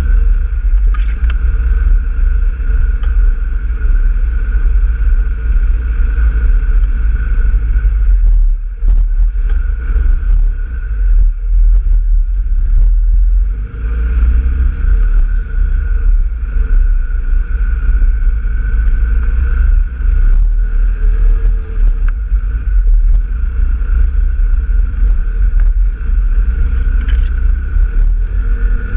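Off-road trail vehicle's engine running steadily under way, over a heavy, uneven low rumble. The engine tone eases off for a few seconds about a third of the way in, then picks up again.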